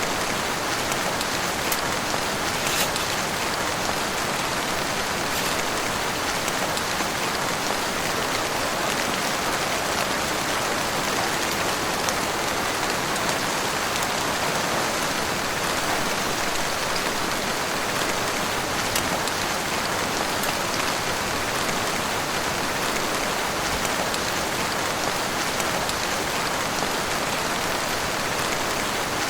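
Heavy rain falling steadily, a dense even hiss with the odd sharper tick of a drop striking nearby.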